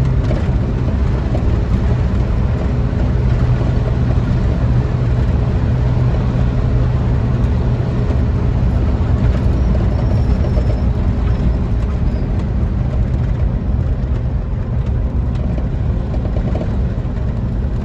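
4.3 V6 engine of a custom 1947 Ford F1 pickup running steadily while the truck drives along, a low engine drone with road noise.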